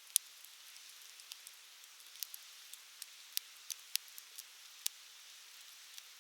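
Wood campfire burning with a steady hiss and irregular sharp crackles and pops, about a dozen in a few seconds, a few of them loud.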